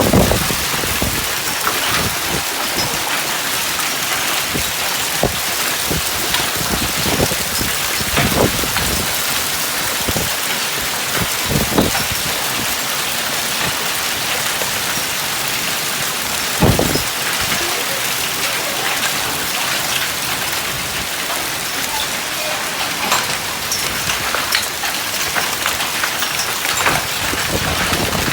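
Hailstorm with heavy rain: a steady hiss of downpour dotted with many sharp knocks of hailstones striking hard surfaces, a few of them louder.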